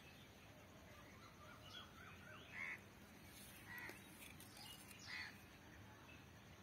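Faint bird calls: a few quick chirps, then three short calls a little over a second apart.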